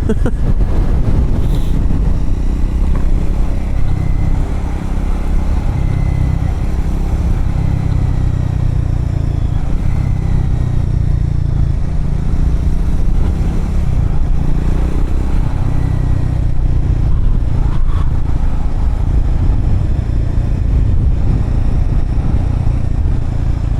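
Triumph Scrambler motorcycle engine running steadily at riding speed on a gravel road, heard from on the bike with a heavy low rumble of engine and wind noise.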